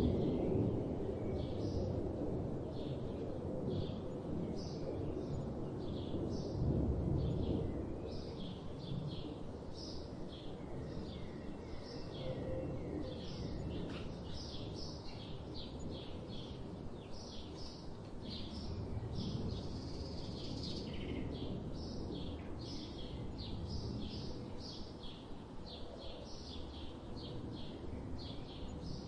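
Birds chirping in short, repeated calls over a low background rumble that swells and fades a few times.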